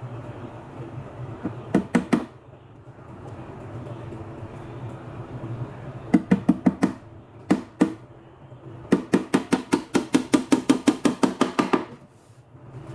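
Hammer driving nails: a few short groups of quick blows, then a long run of rapid, even strikes, about seven a second, before stopping near the end.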